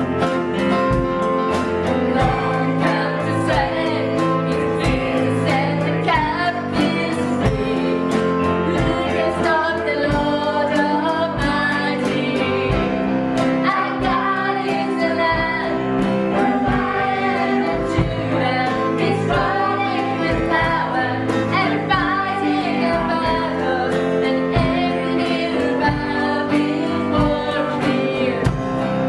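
Worship song sung by a small group of singers over instrumental accompaniment with a steady beat.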